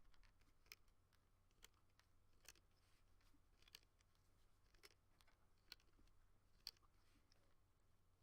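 Near silence: room tone with faint light clicks about once a second.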